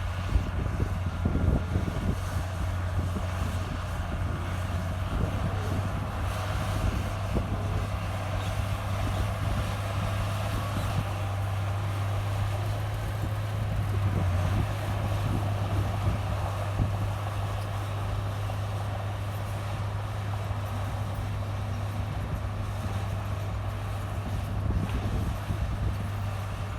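Komatsu bulldozer's diesel engine running steadily with a deep hum, with scattered clanks and knocks that are most frequent in the first two seconds.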